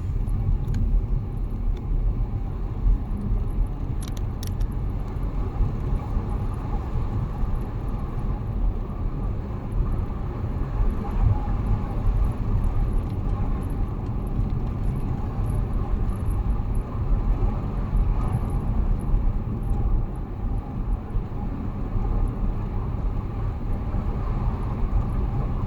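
Steady low road rumble of a car driving, heard from inside the cabin, with a couple of faint clicks about four seconds in.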